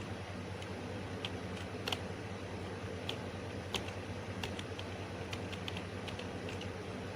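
Computer keys being pressed in irregular, scattered clicks over a steady low hum.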